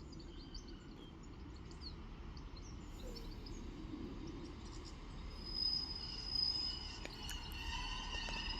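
Class 150 Sprinter diesel multiple unit drawing into the platform, a low rumble slowly growing louder. From about five seconds in, high steady squealing tones come in as it slows, typical of brake squeal. Faint bird chirps sound in the first few seconds.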